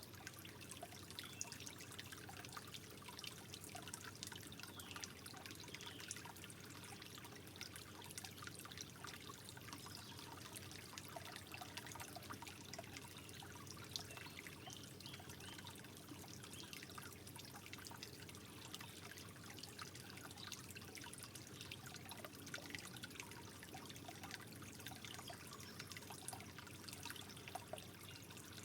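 Gentle trickling water: a steady, soft flow with many small splashes and bubbling drips.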